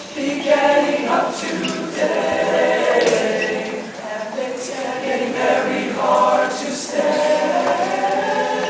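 Show choir singing in harmony, holding chords that change about every second.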